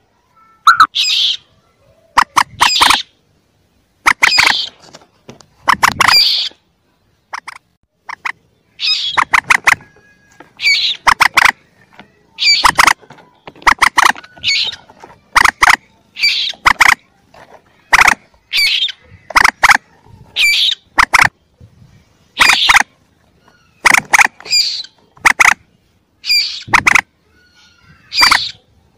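Recorded calls of young moorhens: short, sharp high calls in quick clusters about once a second, with silent gaps between. It is a lure recording used to call moorhens in.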